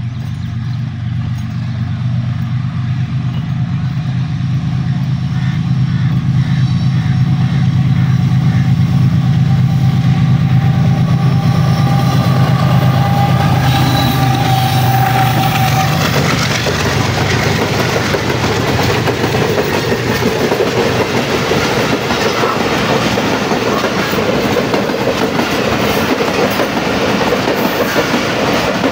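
Pakistan Railways GEU-40 diesel-electric locomotive approaching and passing close by with a loud, steady low engine hum. From about halfway through, its passenger coaches roll past, wheels clattering over the rail joints in a dense, even rattle.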